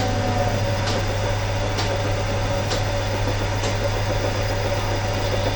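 A machine running steadily with a low hum and a light tick about once a second.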